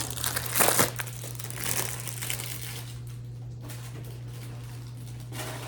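Cardboard box of microwave popcorn being pulled open by hand, the packaging crinkling and rustling in a few bursts, loudest in the first second. A steady low hum runs underneath.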